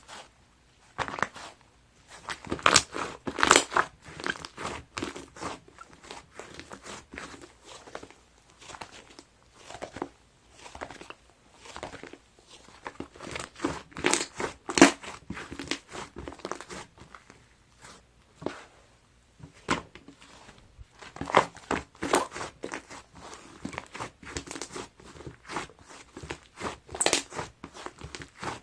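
Hands squeezing and pressing a crunchy sherbet-style slime, giving irregular clusters of crackling and crunching pops with short pauses between handfuls.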